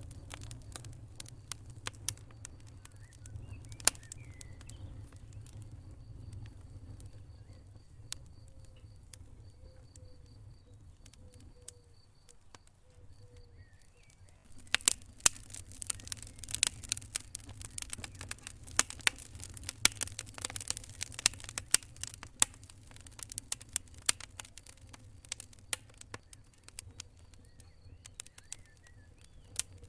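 Wood fire burning in a fireplace: sharp crackles and pops over a low rumble of flames. The popping thickens into a dense run of crackling about halfway through, then thins out again.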